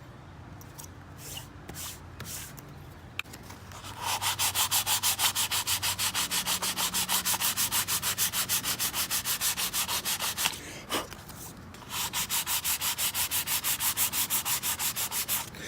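Sandpaper being rubbed fast back and forth over the glued, activator-sprayed CA repair in a rosewood slab, about seven or eight strokes a second. It starts about four seconds in, stops for a moment after about ten seconds, and starts again near the end.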